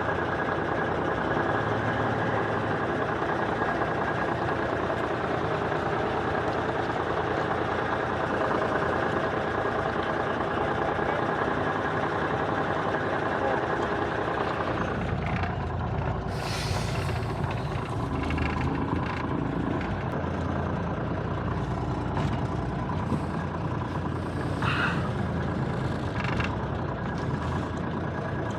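Diesel engine of a 1985 Freightliner cabover semi running at low speed while the rig is maneuvered, its drone changing about halfway through. Several short hisses of air, the truck's air brakes, come in the second half.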